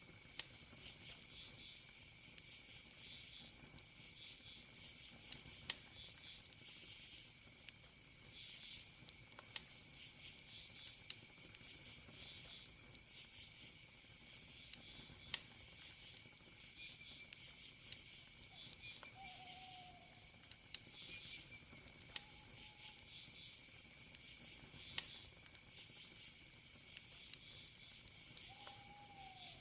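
Campfire crackling, with sharp pops scattered throughout, over crickets chirping in repeated pulsed groups and a steady high insect trill. A short falling call sounds three times in the second half.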